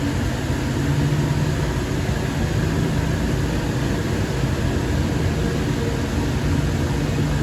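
Light rail train running between stations, heard from inside the car: a steady rumble of the ride with a constant low hum.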